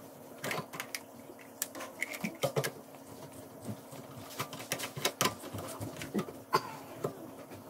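Plastic drain pipe and trap parts clicking and knocking as they are handled and fitted back together, in irregular light taps.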